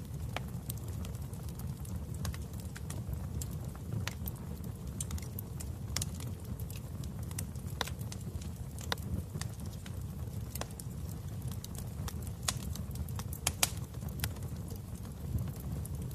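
Wood fire in a fireplace crackling, with irregular sharp pops over a steady low roar of the flames.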